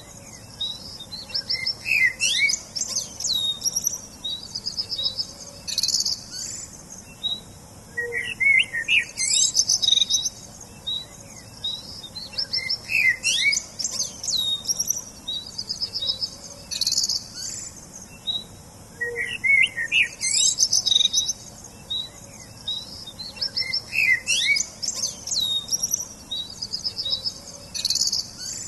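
Songbirds singing: high chirps, quick rising whistles and rapid trills, with the same run of song coming back about every eleven seconds.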